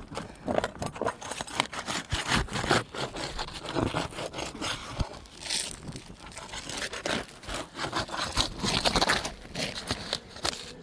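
Asphalt roof shingles being worked loose: an irregular run of scraping, crackling and tearing as the sealed shingle's mat tears instead of releasing cleanly.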